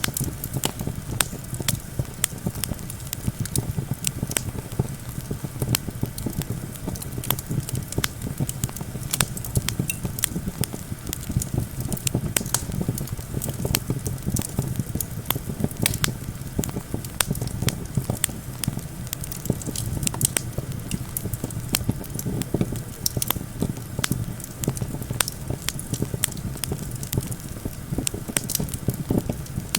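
Campfire crackling, with frequent sharp pops throughout over a steady low rumble of wind.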